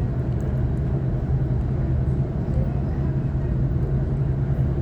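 Sydney Trains Waratah B-set electric train running, heard inside the carriage: a steady low hum over the even rumble of wheels on rails.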